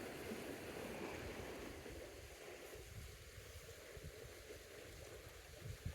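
Faint rush of creek water, with wind buffeting the microphone in irregular low gusts.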